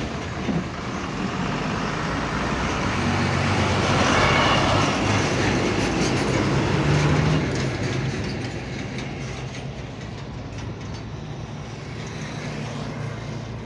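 Heavy truck engine running and passing close by, with tyre and road noise that swells to its loudest about four to seven seconds in and then slowly fades.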